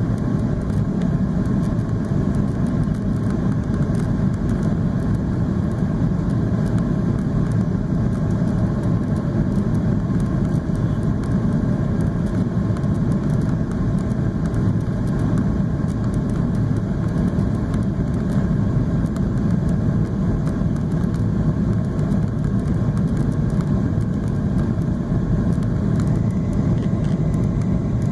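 Steady cabin noise of a Boeing 737-800 in flight: an even rumble of engines and airflow.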